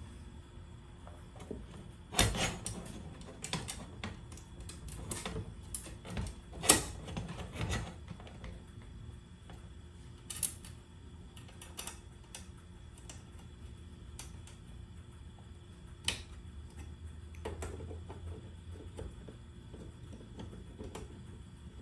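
Irregular clicks and knocks of tools and hardware being handled, thickest in the first eight seconds and sparser after, over a faint steady hum.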